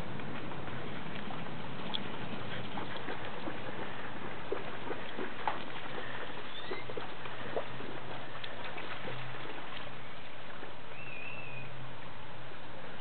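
Dogs running and splashing through shallow rain puddles: scattered small splashes and pattering over a steady hiss, with a couple of faint short chirps.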